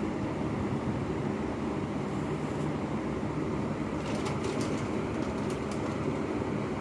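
A steady low engine-like rumble with a faint hum, and a few faint clicks about four to five seconds in.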